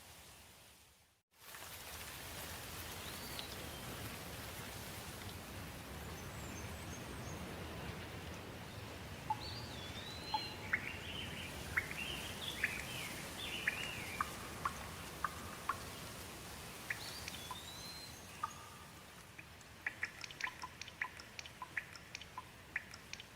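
Steady rain hiss with birds calling over it: scattered looping whistles, then a run of quick chirps in the second half. The sound drops out briefly about a second in and comes back.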